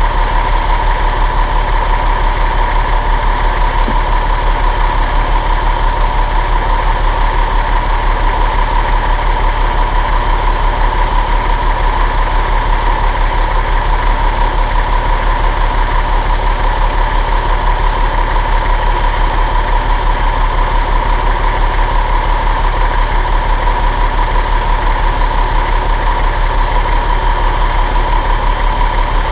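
Caterpillar 3126 inline-six diesel engine idling steadily with an even, rapid pulse.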